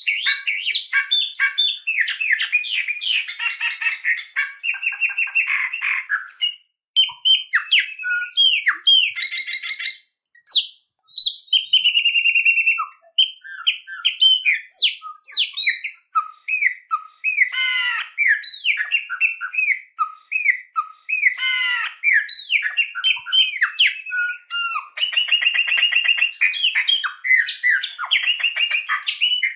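A songbird singing a long, rapid, varied song of fast trills, buzzy runs and clear whistled notes, broken by a few short pauses.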